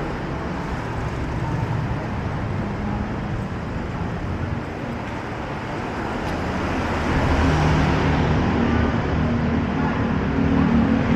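City street traffic: a steady mix of vehicle engines and tyre noise. About two-thirds of the way in, a nearer engine's low hum gets louder.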